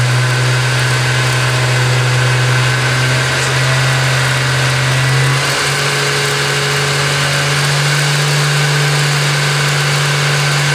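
BMW 335i twin-turbo inline-six engine running steadily, its note stepping slightly higher about halfway through. Over it is a steady hiss of air blowing out of the open Synchronic blow-off valve: the turbos are pushing air out of the valve rather than drawing it in.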